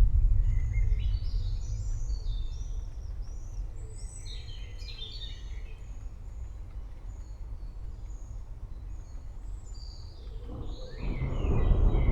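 Thunder rumbling low and dying away over the first few seconds, with birds chirping and a short high call repeating; a new roll of thunder swells up near the end.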